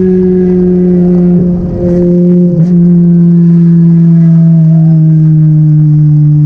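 The 2ZZ-GE-swapped Toyota Corolla's engine running under way with a loud, steady drone whose pitch slowly falls as the revs drop. It dips briefly about one and a half to two seconds in.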